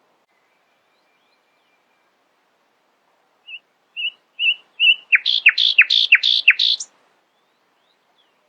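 A songbird singing one phrase: four short soft notes, then five loud notes in quick succession, each sliding steeply down in pitch.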